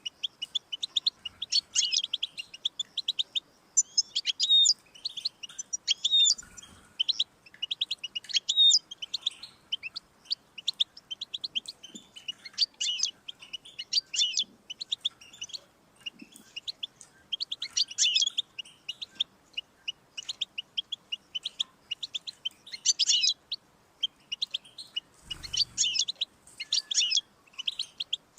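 European goldfinch singing: a continuous twittering song of rapid chirps and trills, with short pauses between phrases. A brief low thump near the end.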